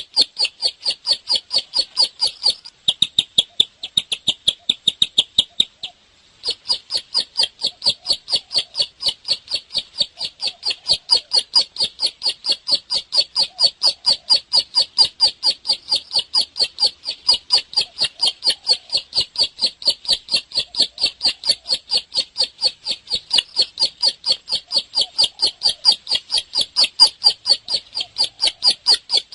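Bar-winged prinia (ciblek) singing at full tilt: a fast, unbroken string of sharp high chirps, about four a second, with a brief break about six seconds in.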